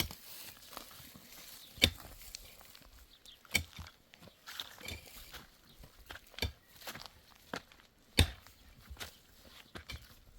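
Irregular knocks and footsteps, with two sharp, loud impacts, one about two seconds in and one about eight seconds in, and smaller knocks between them.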